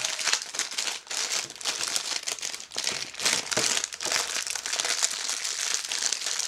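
Packaging crinkling and crumpling steadily as a freshly opened wax-melt package is unwrapped and handled, with many small crackles throughout.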